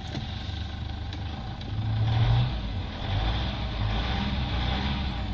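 Mitsubishi 4D56 2.5-litre four-cylinder turbo diesel idling steadily, purring like a kitten. It gets a little louder about two seconds in.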